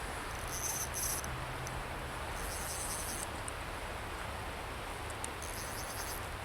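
Creek water running steadily, with three short high-pitched buzzes over it: about half a second in, near the middle, and near the end.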